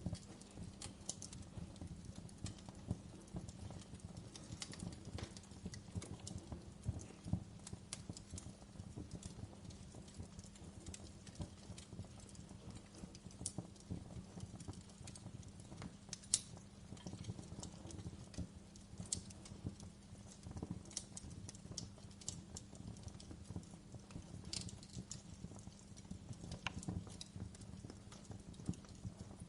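Wood fire in a fireplace crackling: a dense, irregular run of small crackles with a few sharper pops standing out, over a faint steady low hum.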